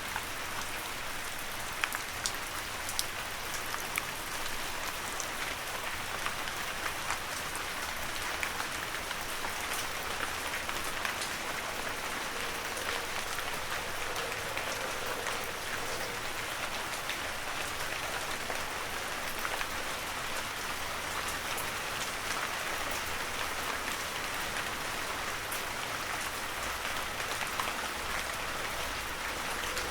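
Heavy rain falling steadily, an even hiss with many sharp individual drops ticking on surfaces.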